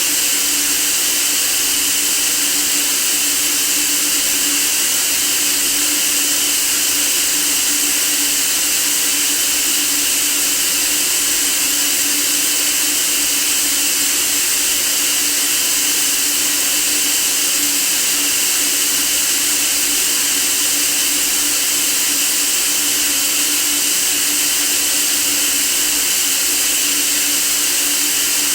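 Steady, unbroken white-noise hiss, brightest in the high range, with a faint steady low tone beneath it.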